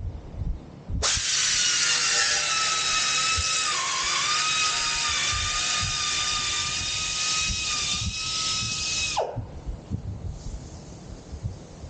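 High-speed handheld power tool whining steadily for about eight seconds as it cuts. Its pitch dips briefly twice as it bites into the material, and it winds down when switched off. Light knocks sound before and after.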